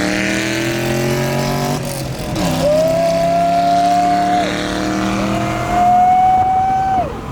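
Car engine pulling hard at full throttle through the gears: its pitch climbs steadily, then drops sharply at each upshift, about two, four and a half and seven seconds in, before climbing again.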